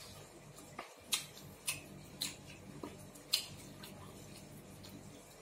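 Someone chewing food, giving short wet mouth clicks about twice a second over a faint steady hum.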